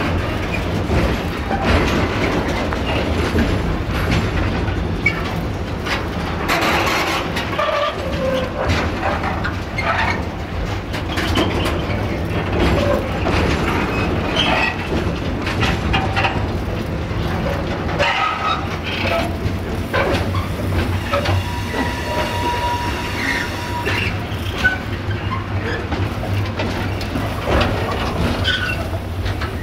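Container flat wagons of an intermodal freight train rolling past close by: a steady rumble of steel wheels on the rails, with repeated clicking over the rail joints. About two-thirds of the way through, a steady squealing tone holds for a few seconds.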